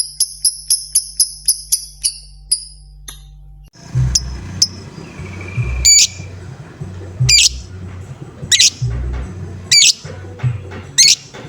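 Lovebird ticking song: a fast run of sharp, high, evenly spaced notes that slows and fades out within the first few seconds. After a sudden change about four seconds in, single sharp high chirps repeat roughly every second and a half over low, uneven thumping rumbles.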